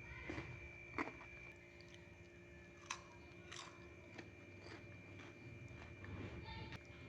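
Close-miked mouth sounds of a person chewing food: scattered crisp clicks and crunches, the sharpest about a second in and another near three seconds, over a faint steady hum.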